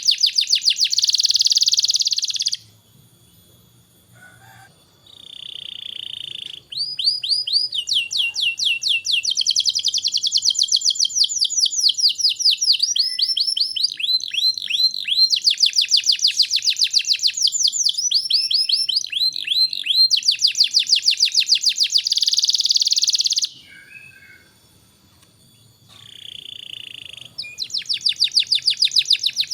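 Domestic canary singing long, fast trills of rapidly repeated high notes. It falls silent twice for a few seconds, each time starting again with a short buzzy note.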